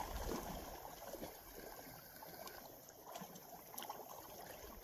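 Faint water lapping and trickling at the shoreline, a soft, even wash with a few small ticks.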